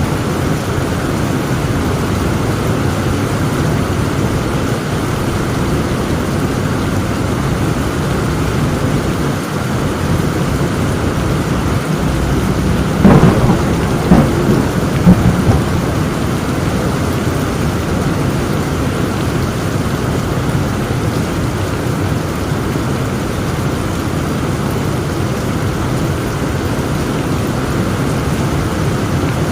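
Heavy rain falling steadily, with a short cluster of thunder cracks about halfway through: four sharp peaks over roughly two seconds.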